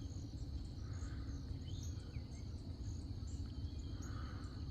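Night insects chirping outdoors: a steady high drone with short, evenly repeated chirps and a few lower sliding calls, over a steady low rumble.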